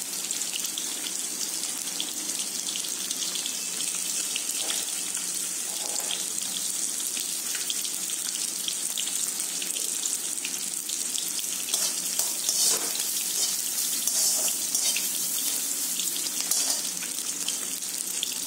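Chopped onion, green chillies and curry leaves frying in oil in a steel kadai over a medium gas flame: a steady sizzle with scattered small crackles and pops.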